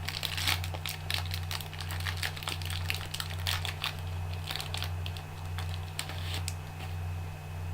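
Trading cards being handled and flipped through: a run of quick clicks and crinkles, thinning out after about five seconds, over a steady low hum.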